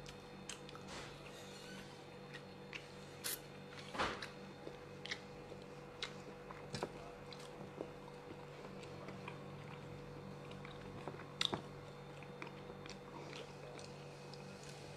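A person chewing and biting food, with scattered soft clicks and mouth sounds, over a steady low electrical hum.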